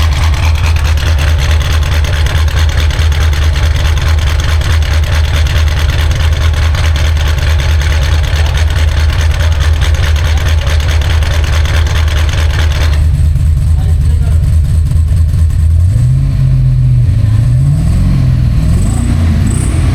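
LS3 6.2-litre V8 in a BMW E38 running through a valved exhaust: a steady, deep idle whose raspy upper edge cuts out suddenly about two-thirds of the way in, leaving a duller note. Near the end the engine is revved several times, the pitch rising and falling.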